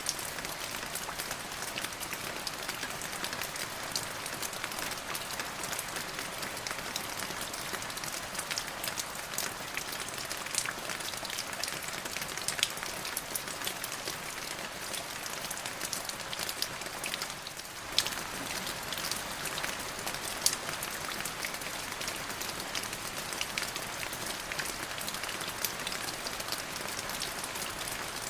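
Steady rain falling: a dense hiss with many sharp individual drops ticking through it. It thins briefly about two-thirds of the way through.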